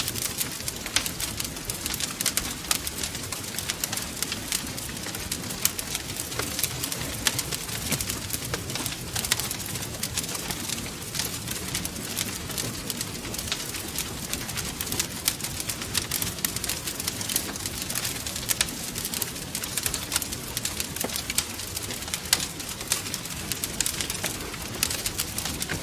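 Wood fire crackling steadily, with a dense, irregular run of small sharp pops and snaps over a low rush of flame.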